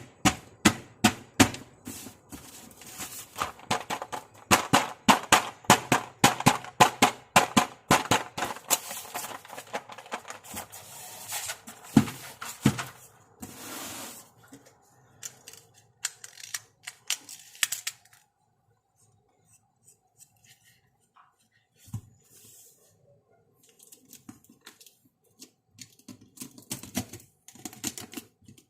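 Toy makeup set being unboxed and handled: a quick run of sharp clicks and snips for the first nine seconds or so, then rustling and handling noise, then a quieter stretch with scattered taps and a few more clicks near the end.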